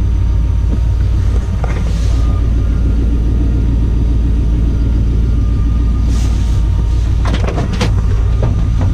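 LS V8 in a Chevy C10 idling steadily just after a cold start at about −14 °C, a deep, even exhaust rumble through Thrush glasspack mufflers. A few sharp clicks come near the end.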